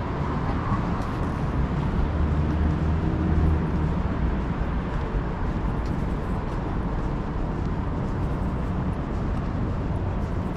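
City street traffic: a steady rumble of passing vehicles, growing a little louder and lower about two to four seconds in as a vehicle engine goes by.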